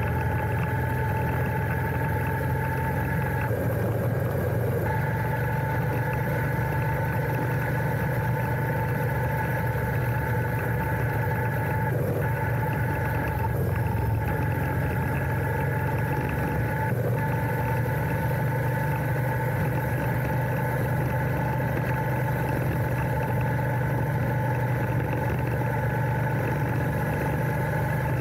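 Royal Enfield Interceptor 650's 648 cc parallel-twin engine running steadily, its note holding even with no revving.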